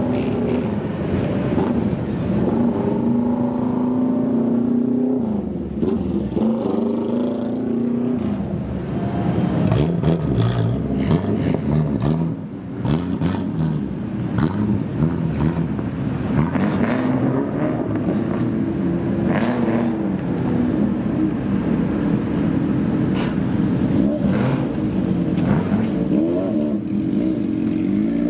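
Loud engine of a customised kaido racer (old Japanese car) being revved again and again, its pitch rising and falling, with sharp cracks scattered through the middle stretch.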